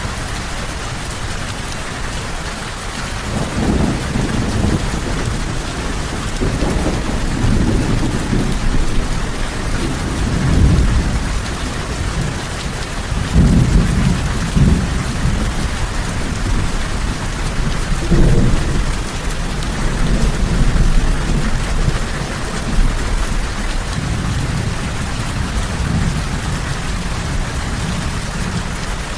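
Steady heavy rain with rolling thunder: deep rumbles swell and fade again and again, strongest about a third and about half of the way through.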